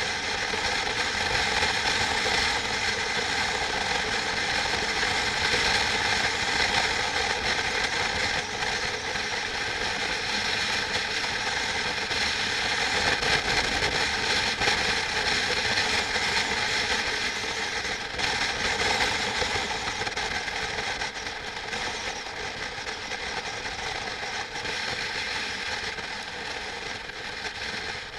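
Steady mechanical running noise of machinery, a dense rattling clatter with several steady tones, easing off slightly near the end.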